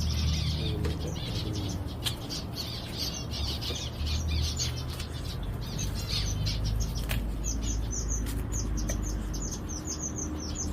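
A flock of zebra finches chattering in an aviary: a dense, continuous stream of short, high chirping calls, with a steady low hum beneath.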